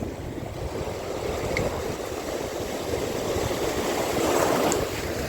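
Wind buffeting the microphone over the wash of sea water, with a swell of water noise near the end.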